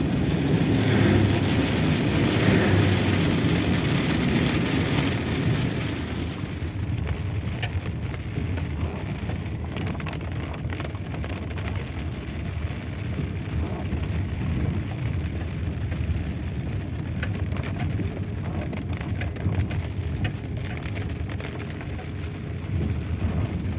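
Car driving along, a steady engine and road noise heard from inside. It is louder and brighter for the first six seconds or so, then eases off a little, with scattered faint ticks.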